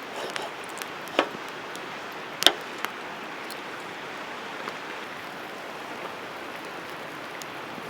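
Wood campfire crackling: a few sharp pops over a steady hiss, the loudest about two and a half seconds in.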